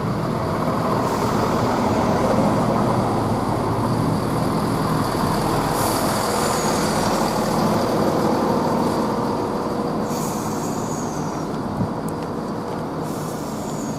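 Class 170 Turbostar diesel multiple unit standing at the platform, its underfloor diesel engines running steadily. Three short, high hisses sound about six, ten and thirteen seconds in.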